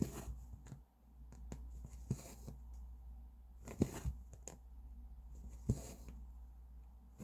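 Embroidery thread being drawn through cross-stitch fabric: a soft rasping swish about every two seconds as each stitch is pulled through, with small taps and clicks of the needle and hoop between.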